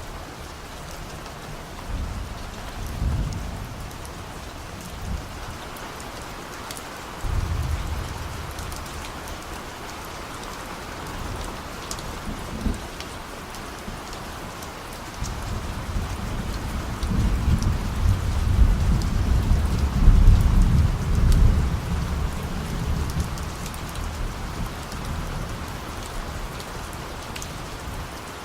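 Steady rain falling, with distant thunder rumbling three times: short rolls about two and seven seconds in, then a long, deeper roll that builds from about halfway and peaks a few seconds later before fading.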